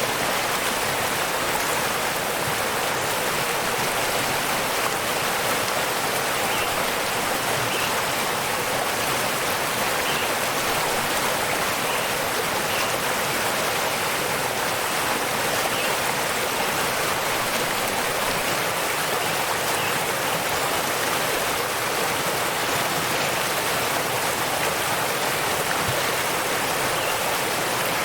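Waterfall: a steady, unbroken rush of falling water, with a few faint short high notes now and then.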